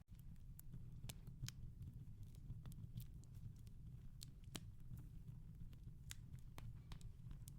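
Wood fire crackling softly in a fireplace: irregular sharp pops and snaps, several a second, over a low steady rumble.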